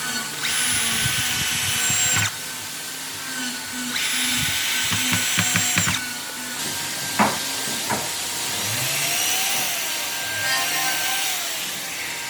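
Handheld electric power tool working on wood, running in bursts of about two seconds with short pauses between them, with two sharp knocks near the middle.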